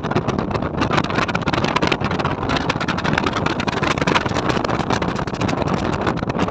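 Continuous noise of a moving vehicle, loud and steady, with a dense crackle running through it.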